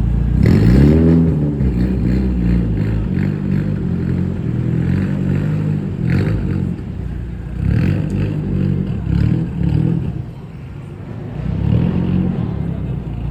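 Car engine revving: its pitch rises sharply about half a second in, then the engine keeps running with repeated rises and falls in revs.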